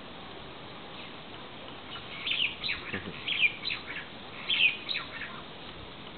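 Lovebird chirping: a run of short, high, sharp chirps starting about two seconds in and stopping a little after five seconds.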